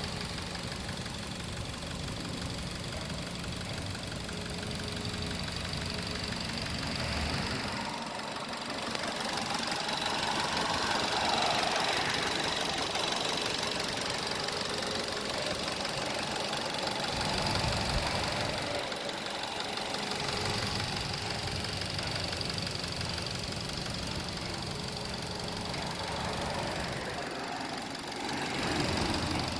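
First-generation Mazda 6 engine running steadily at idle with a slight misfire.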